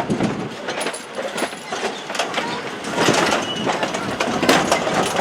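Railway train rolling on track, with irregular clanking and knocking from the wheels and couplings.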